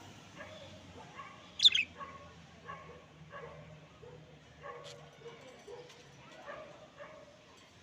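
A string of short animal calls, roughly one every half second, with a single louder, higher chirp just before two seconds in.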